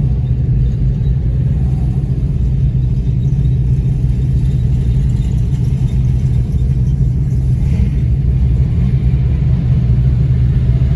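A 2020 Shelby GT500's supercharged 5.2-litre V8 running at a steady, unchanging engine speed, a constant low drone.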